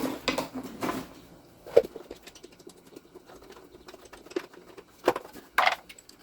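A few scattered clicks and knocks from hand tools and engine parts being handled, with a short scrape near the end and quiet stretches between.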